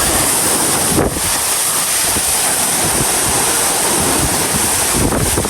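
Waterfall's loud, steady rush of falling water, with wind buffeting the microphone. A brief knock about a second in.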